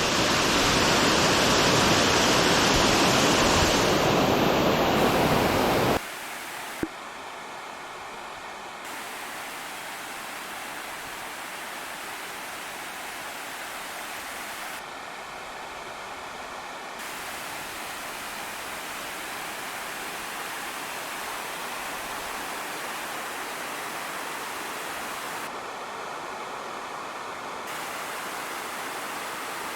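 Waterfall rushing, a steady even noise of falling water; about six seconds in it drops suddenly to a quieter, steady rush.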